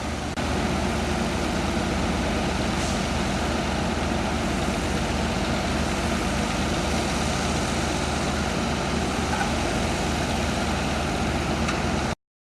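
A heavy engine running steadily with a low hum. The level steps up just after the start, and the sound cuts off abruptly near the end.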